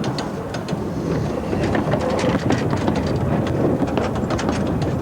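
Narrow-gauge steam train rolling past: a low rumble that grows louder about a second in, with a fast, irregular run of metallic clicks and rattles from wheels and running gear on the track.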